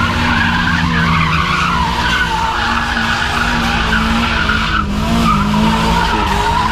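A car's tyres squealing continuously under wheelspin while its engine is held at high revs, the squeal wavering in pitch: a car sliding or doing a burnout.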